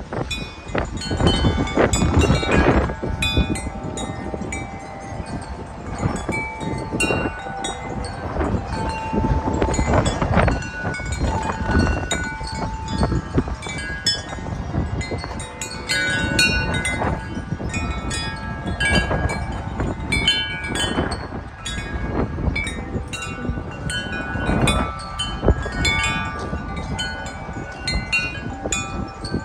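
Wind chimes ringing continuously and hard in strong, gusty wind, their tones at several pitches striking over and over. Heavy wind rumbles on the microphone underneath.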